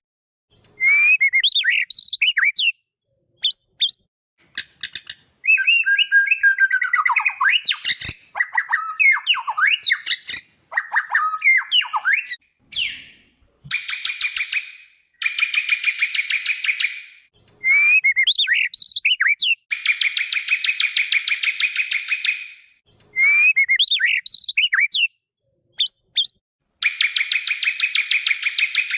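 White-rumped shama (murai batu) singing: quick varied whistled phrases sliding up and down, alternating with three long buzzing rattles of a few seconds each.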